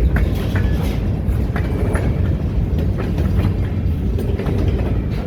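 Long freight train rolling past: a steady low rumble of the cars with scattered wheel clicks over the rail joints and a brief high squeal about two seconds in.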